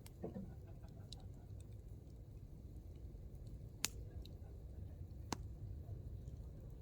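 Hardwood campfire burning with a low steady rumble and scattered light crackles; two sharp pops of the wood stand out, the louder a little under four seconds in and another about a second and a half later.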